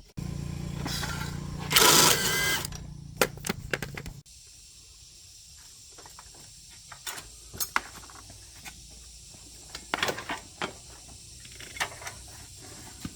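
A small machine runs with a steady hum, a loud burst of noise about two seconds in, and stops abruptly about four seconds in. Scattered light metallic clicks and taps of hand work follow.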